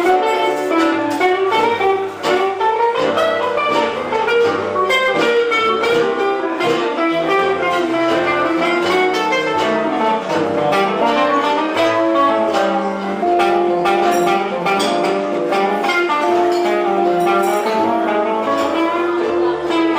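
Live band music: a gypsy-style band playing a continuous tune, with held melody notes over a moving bass line.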